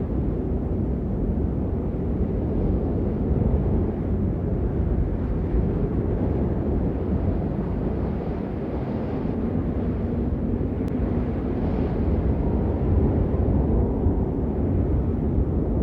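Steady heavy rain, heard as a dense, muffled hiss with most of its weight low down and little treble.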